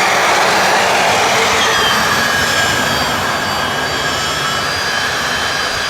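Twin 90 mm electric ducted fans of an RC Airbus A310 model running at taxi power: a loud, steady whine with several high tones over a rush of air. About two seconds in the pitch eases down as the throttle is backed off, then holds steady.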